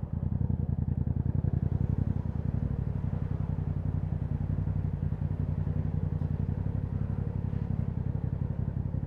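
Yamaha MT-07's parallel-twin engine running steadily at low revs through an aftermarket Akrapovic exhaust, with an even pulsing.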